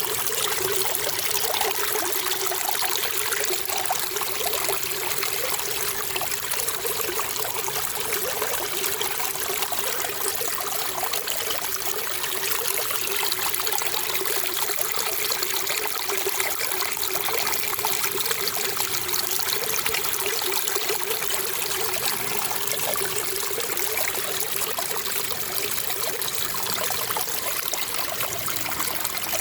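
Running water trickling steadily, an even splashing rush with no breaks or changes.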